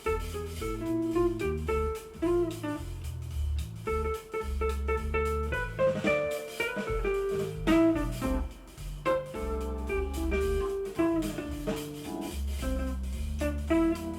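Edifier S2000 MkIII bookshelf speakers playing music, picked up by a camera's built-in microphone: a plucked guitar melody over a deep, prominent bass line.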